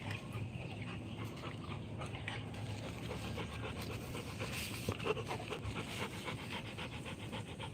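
Rottweiler panting steadily with quick, even breaths.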